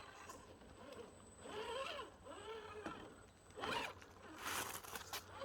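FTX Hi Rock RC crawler's 55-turn brushed motor and drivetrain whining, rising and falling in pitch twice as the throttle is worked. Short scraping noises follow near the end.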